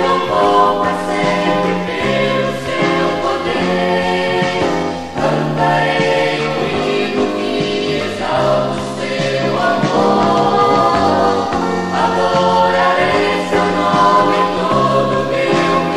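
Brazilian gospel vocal group singing together over a band, with held notes and a moving bass line.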